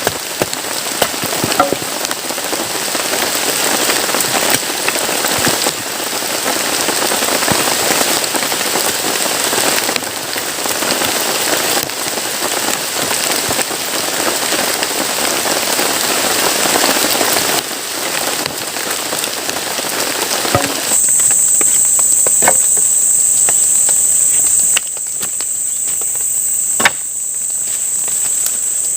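Heavy rain pouring steadily in a tropical forest, with scattered louder drop hits. About two-thirds of the way through, the rain gives way to a steady, high-pitched chorus of insects, with a few sharp clicks.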